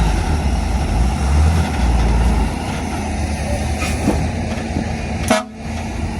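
Heavy construction machine's diesel engine running with a deep rumble that eases off about two and a half seconds in, then a single short sharp sound near the end.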